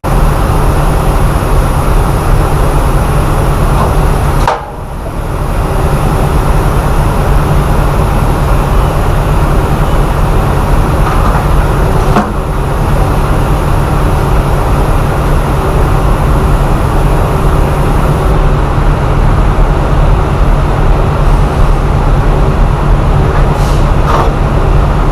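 Semi truck driving on the highway, heard from inside the cab: steady engine and road noise, with a brief dip about four and a half seconds in.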